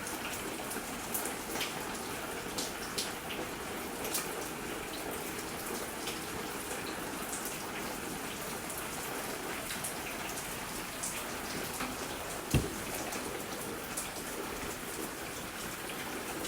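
Steady rain falling and dripping outside, an even hiss with scattered small drip ticks. A single short dull thump about three-quarters of the way through.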